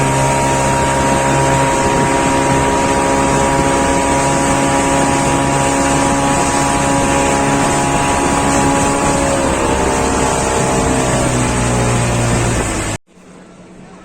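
An engine running loud and steady, its pitch dropping about ten seconds in, then cut off abruptly near the end, leaving quieter background with a low hum.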